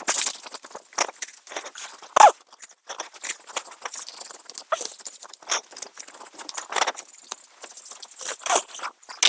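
Hand wire brush scrubbing dirt and rust off the sprocket bolts on a mini excavator's final drive, in quick, irregular scratchy strokes, with a louder scrape about two seconds in.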